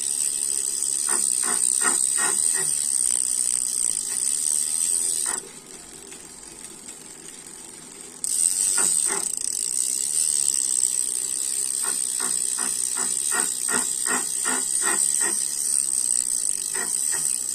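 Tacx Neo smart trainer running with a steady high-pitched hiss, while its Edgo freehub gives off bursts of sharp clicks, several a second. This is the freehub noise problem. The hiss and clicks stop for about three seconds a little after five seconds in, then start again with longer runs of clicks.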